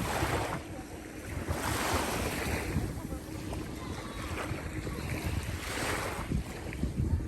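Wind and the rushing wash of sea water, swelling in several surges, with wind rumbling on the microphone.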